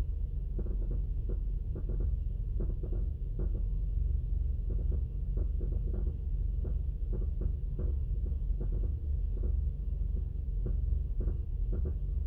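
2002 Mazda Atenza engine idling roughly: a steady low rumble broken by uneven, sharper pulses a few times each second, the unsteady running of a rough idle.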